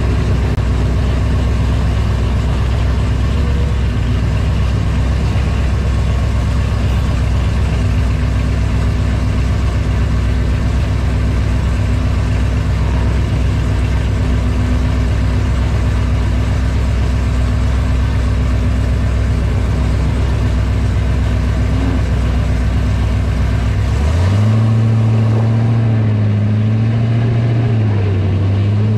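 Car engines idling close by with a steady low rumble. About 24 seconds in, one engine is revved up and held at higher revs, its pitch rising and dipping a few times.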